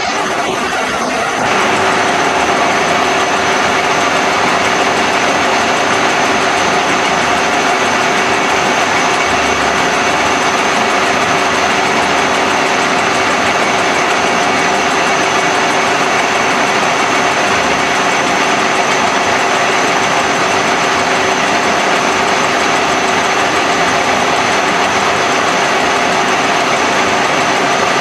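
A machine running steadily with a constant hum and whine, stepping up in level about a second and a half in and then holding even.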